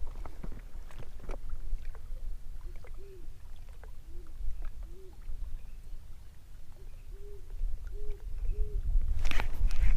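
A bird giving a series of about seven short, low hooting calls, each rising then falling in pitch, over a steady low rumble. A louder noisy burst comes near the end.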